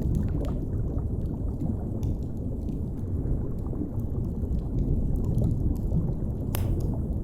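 Steady low underwater rumble and wash, with a wood fire crackling over it in scattered sharp pops, one louder pop near the end.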